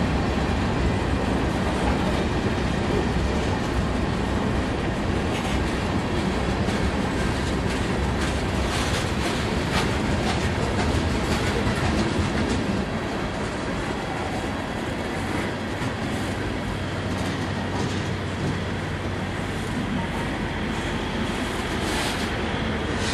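Freight cars of a passing Norfolk Southern train rolling by steadily, steel wheels clicking and clacking over the rails. The rumble eases a little about halfway through.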